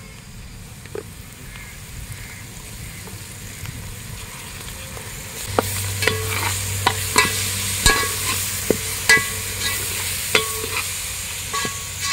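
Onions, green chillies and whole spices frying in oil in an aluminium pot with freshly added garlic paste, sizzling. The sizzle grows louder about halfway through as a metal slotted spoon starts stirring, clinking and scraping against the pot side again and again.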